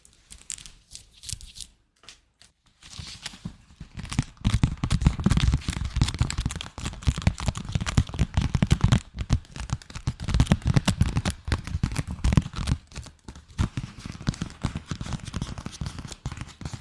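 Close-miked ASMR trigger sounds: a dense run of rapid crackling clicks with deep thumps under them. They start after a brief pause about two seconds in and ease off somewhat near the end.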